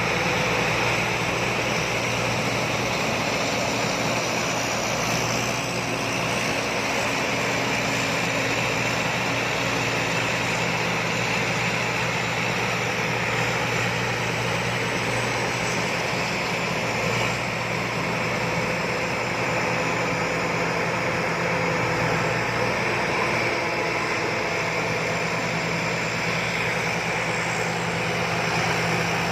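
Rice combine harvester running steadily: a constant engine drone together with the even whirring of its cutting and threshing machinery, with no pauses or knocks.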